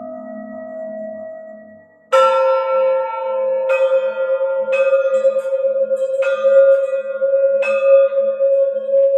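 A singing bowl ringing: an earlier tone dies away over the first two seconds, then the bowl is struck about two seconds in and four more times. Its deep ring is held and wavers between the strikes.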